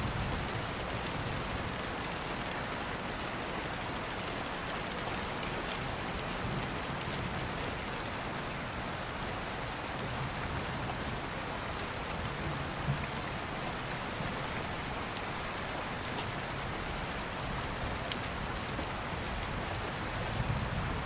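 Steady rain, an even hiss, with a few faint sharp clicks scattered through it.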